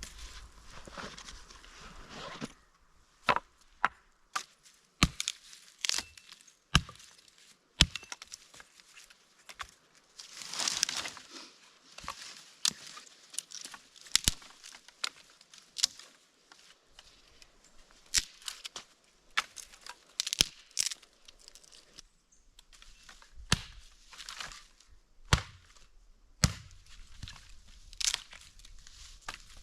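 Dry wood being broken and chopped by hand: irregular sharp cracks and snaps, with a few longer rustling, tearing stretches between them.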